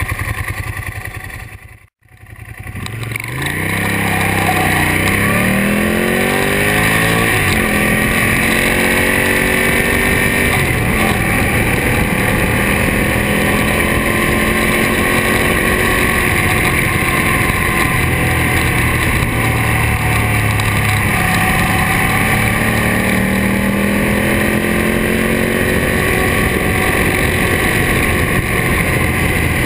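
Ducati Monster S4RS's L-twin engine breathing through a Termignoni exhaust, heard from on board. The sound drops out briefly about two seconds in; then the revs climb as the bike accelerates, and the engine settles into steady running with slow rises and falls in revs.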